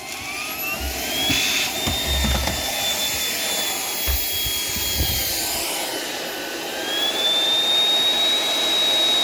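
Shark PowerDetect vacuum cleaner running, its motor whine shifting in pitch: it rises early on, dips about six seconds in, and climbs again near seven seconds. A few low thumps come in the first half.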